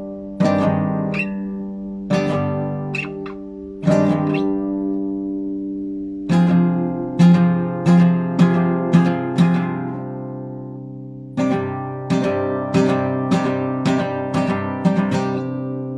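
Classical guitar played solo in an improvisation: plucked chords left to ring and die away, with a quicker run of single notes in the middle.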